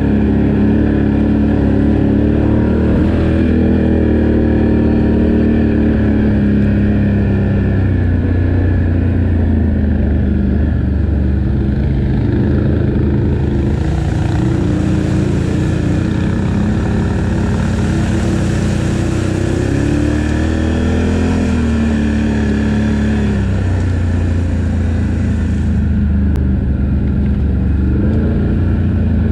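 ATV engine running under way, its pitch rising and falling with the throttle, with a spell of added hiss in the middle.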